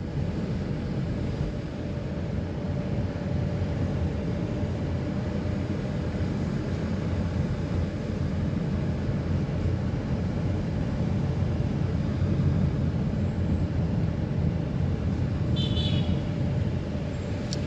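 Steady engine and road rumble of a vehicle driving along a forest road, heard from on board. A short high chirp cuts in near the end.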